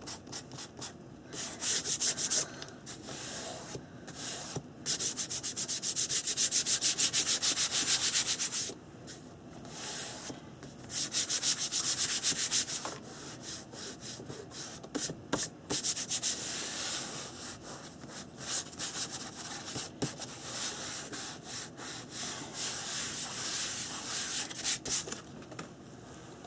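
Dried masking fluid being rubbed off watercolour paper by hand: quick back-and-forth scratchy rubbing strokes in bursts of a few seconds each, with short pauses between.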